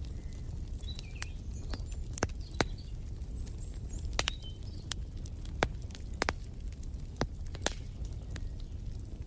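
Wood fire crackling: irregular sharp pops and snaps, a few louder ones, over a low steady rumble of burning. Faint short bird chirps sound here and there.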